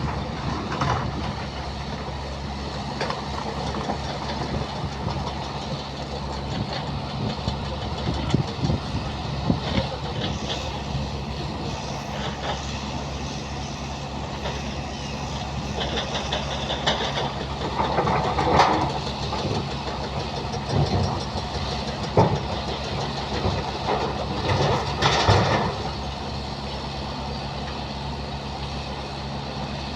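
JCB excavator's diesel engine running steadily, with a few louder clanks and surges of noise during loading work, the loudest about two-thirds of the way through.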